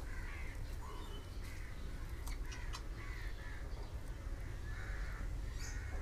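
Birds calling in a string of short, harsh caws, with faint soil scraping and clicks as a rooted guava cutting is eased out of loose potting soil.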